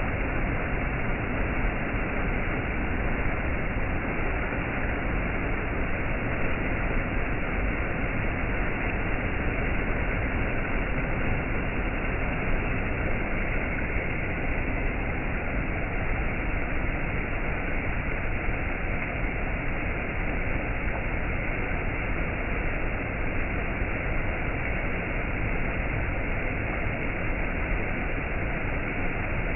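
Waterfall: falling water rushing steadily in one even, unbroken hiss.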